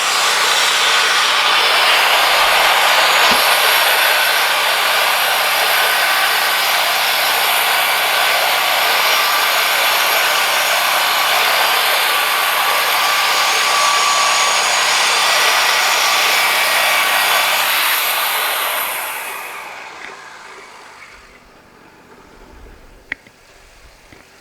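Woodmizer LT40 band sawmill running a cut through a pine log: a loud, steady saw-and-engine noise. It dies away about 18 to 21 seconds in as the cut ends, and a few light knocks follow near the end.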